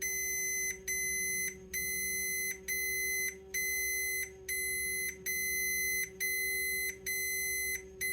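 Continuity beeper of a resistance tester sounding a long beep about once a second with short breaks, each break the mechanical cam contacts of a USA Trains FEF steam locomotive opening, four per wheel revolution, as they would switch the chuff signal. A steady low hum runs underneath.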